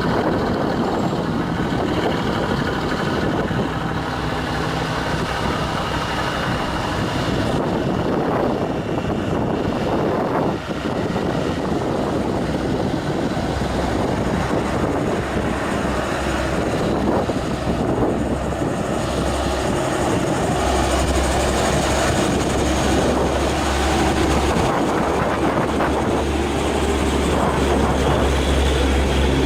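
Heavily loaded truck's diesel engine running under load on a hill climb, a continuous loud mechanical noise. A deep low drone grows stronger about two-thirds of the way through.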